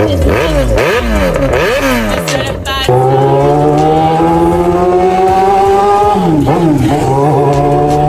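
Yamaha XJ6's 600cc inline-four engine revved up and down in several quick swoops. About three seconds in, the revs begin climbing slowly and steadily, then drop sharply about six seconds in and climb again.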